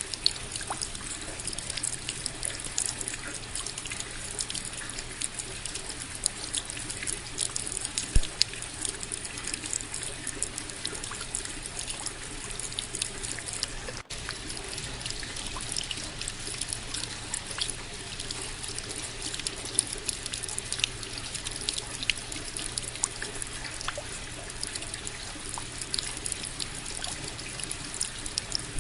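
Steady rain: an even hiss with many individual drops heard as small sharp ticks, and a momentary break in the sound about halfway through.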